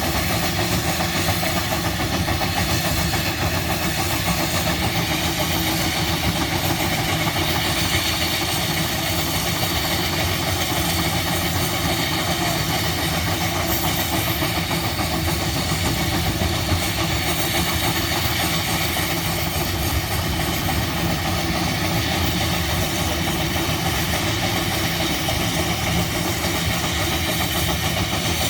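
Antique gas engines running steadily, a constant mechanical din.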